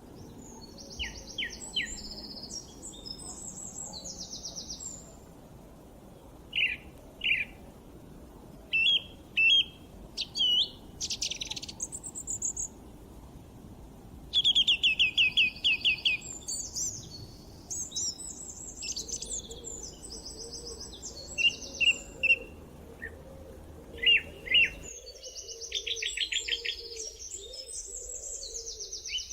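Several songbirds singing and chirping, overlapping: short sharp call notes, whistled phrases and fast trills, with the loudest rapid trill about halfway through.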